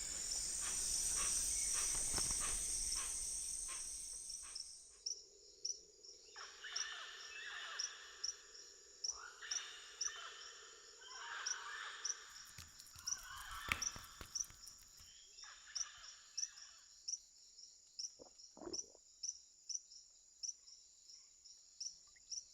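Rainforest insect chorus: a steady high-pitched buzz with a regular chirp about every two-thirds of a second. Between about six and fifteen seconds in there are several harsh, raspy animal calls and a low steady drone.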